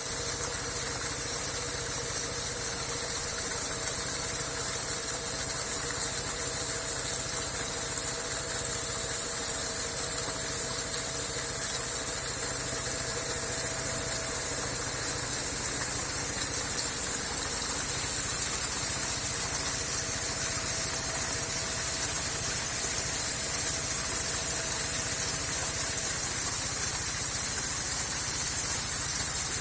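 Waterfall rushing steadily, an even roar of falling water, with a faint steady hum that comes and goes twice.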